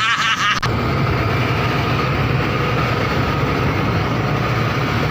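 Fishing boat's engine running steadily with a low drone under a rushing noise. The sound changes abruptly just over half a second in, as at a cut.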